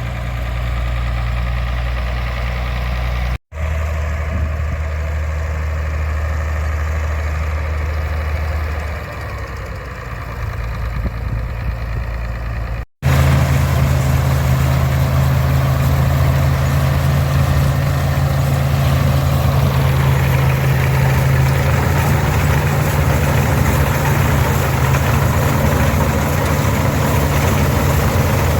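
International 460 tractor's 282 six-cylinder diesel running steadily, powering an International 82 pull-type combine. The sound breaks off briefly twice, about three and a half and thirteen seconds in. After the second break it is louder, with more machinery noise over the engine.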